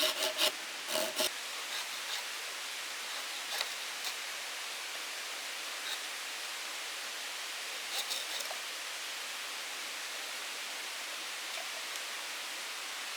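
A few strokes of a saw cutting wood in the first second or so, then a steady, even hiss with a few faint clicks.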